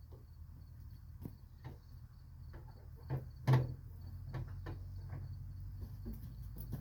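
Scattered knocks and clunks of a truck hood being handled while someone struggles to close it, the loudest about three and a half seconds in. Faint crickets chirp steadily behind.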